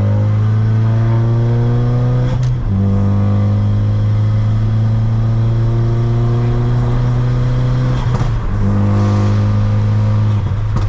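Ford Focus RS's turbocharged 2.3-litre four-cylinder pulling hard under about three-quarter throttle. Its loud, steady engine note breaks briefly about two and a half and eight seconds in, each break with a sharp crack as it changes gear.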